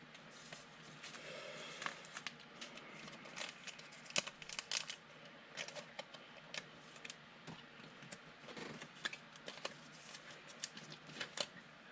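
Trading cards being handled on a table: scattered light taps, slides and rustles of card stock.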